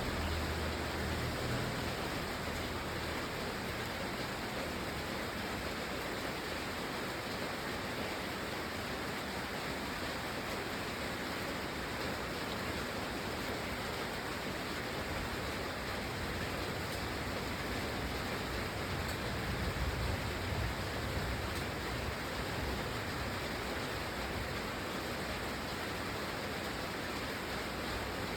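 Steady, even rain falling. A low rumble swells briefly near the start and again about two-thirds of the way through.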